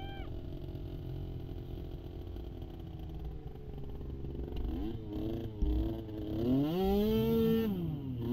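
Small youth ATV engines running with a steady drone. About six and a half seconds in, one revs up loudly, holds high, then eases off near the end.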